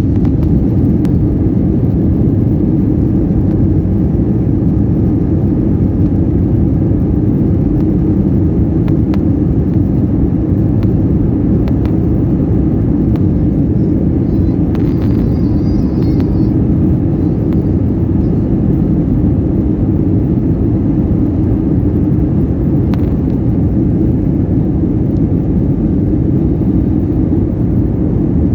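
Airbus A321 taking off: a loud, steady low rumble of its turbofan engines at takeoff power.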